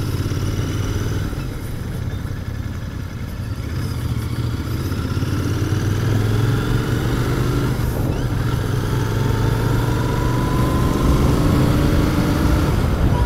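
Royal Enfield Continental GT 650's parallel-twin engine running through its stock exhaust on the move. It eases off briefly early on, then pulls steadily, its note rising slowly as the bike gathers speed over the second half.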